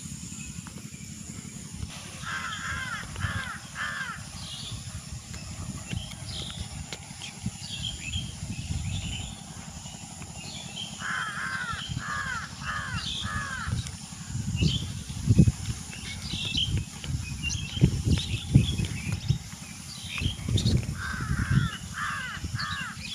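A crow cawing in runs of about four calls, three times over, with smaller birds chirping. Wind buffets the microphone in gusts, strongest in the second half.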